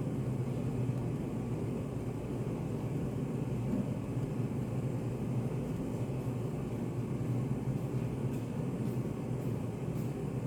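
Steady low hum of a study cafe's room ambience, even and unchanging, with a few faint clicks near the end.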